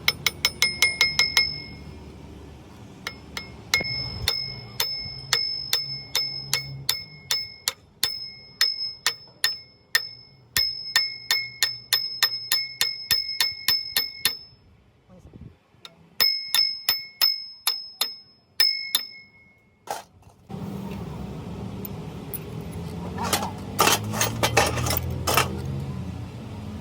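A hammer striking a steel part again and again, each blow ringing with a clear metallic tone. The blows come in quick runs of several a second with short pauses between them. Near the end a steady workshop noise starts up, with a last flurry of blows.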